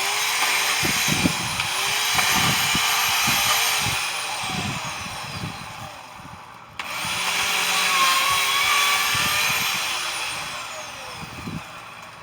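A power tool run in two bursts of about six seconds, the second starting about seven seconds in. Each time its motor spins up, runs, then winds down.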